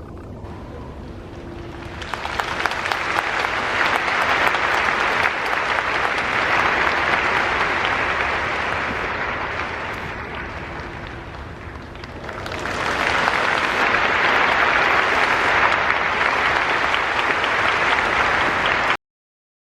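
Stadium crowd applauding in two waves: the clapping builds about two seconds in, eases off, then swells again, and cuts off abruptly near the end.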